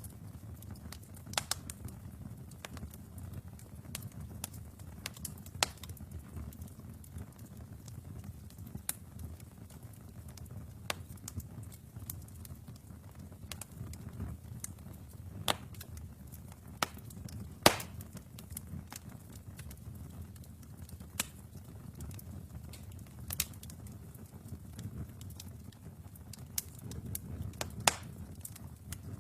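Wood fire in a fireplace burning with a low steady rumble and irregular sharp crackles and pops, the loudest about two-thirds of the way through.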